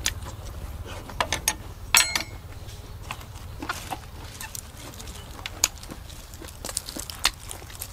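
Close-miked chewing of crisp raw vegetables: irregular sharp crunches and wet mouth clicks, a dense cluster of them about two seconds in, over a low steady hum.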